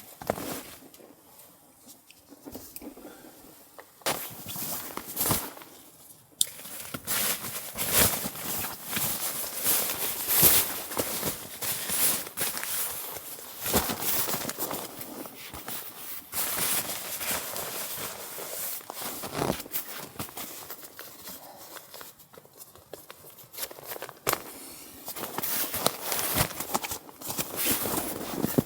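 Irregular crunching and rustling, sparse for about the first six seconds and then busy and nearly continuous.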